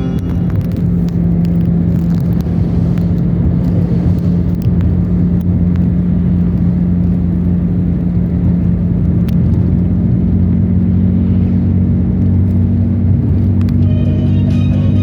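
Car driving along a road: a steady engine and road drone with a low hum. Music comes back in near the end.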